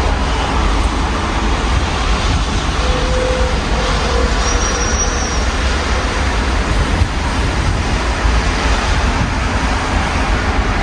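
Steady rain and city traffic heard through an open window: an even hiss of rain over a low, continuous rumble of passing vehicles.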